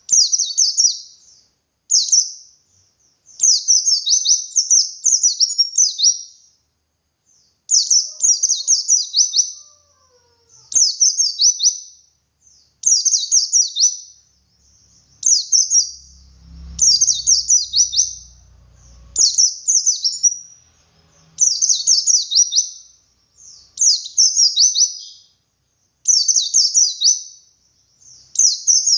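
Pleci (white-eye) singing its 'ngalas' song: phrase after phrase of rapid, high, downward-sweeping notes, each phrase a second or two long with brief pauses between. This is the 'wit wit' song style used to lure other white-eyes into singing.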